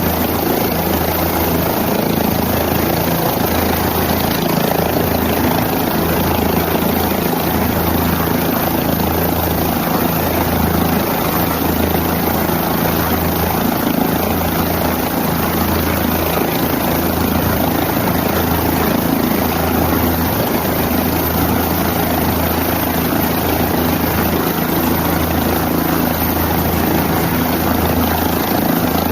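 Helicopter running steadily: a constant engine and rotor din with a low, pulsing beat from the rotor blades.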